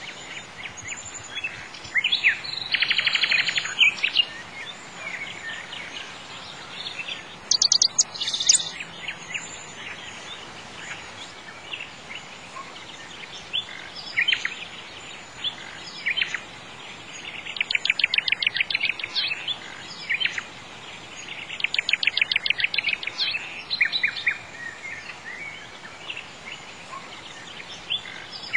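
Songbirds singing: several bursts of fast trills of repeated high chirps, over a steady background hiss.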